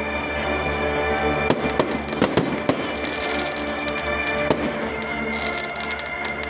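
Firecrackers going off in irregular sharp bangs, about a dozen, over steady music.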